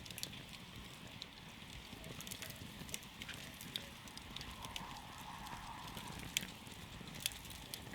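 Wood campfire crackling, with irregular sharp pops over a steady low rumble of the burning fire.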